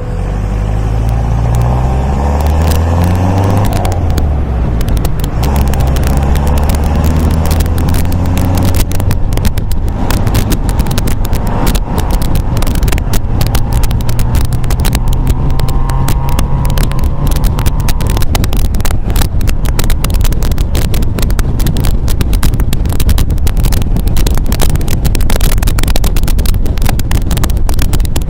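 MGA roadster's four-cylinder engine pulling under acceleration, its note rising over the first few seconds, dropping as it shifts up, then climbing again. Heavy wind buffeting on the microphone builds from about five seconds in.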